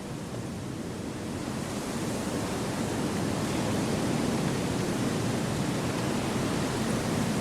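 Steady wind rushing through forest trees, a continuous gust that swells gradually louder over the first few seconds.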